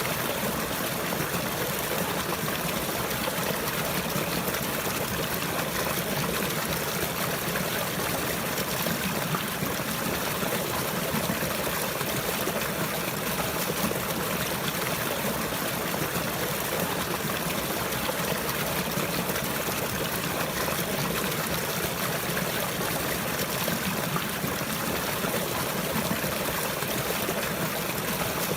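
Running water flowing and trickling steadily, with no music or other sound.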